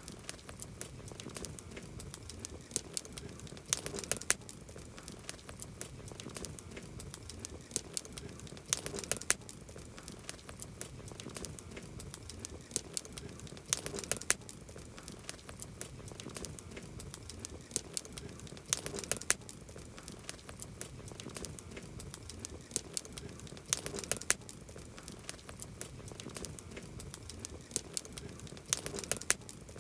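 Campfire crackling steadily, with a cluster of sharp pops and snaps about every five seconds.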